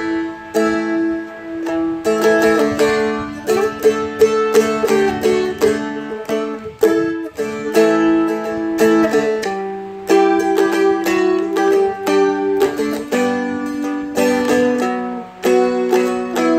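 Seagull Merlin M4, a four-string dulcimer-style fretted instrument, being strummed and picked: ringing chords with melody notes picked out on top, in a slow ballad.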